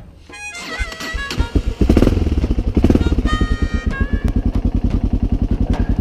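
Enduro motorcycle engine running unevenly at first, picking up about two seconds in, then settling into a steady idle of about ten even pulses a second.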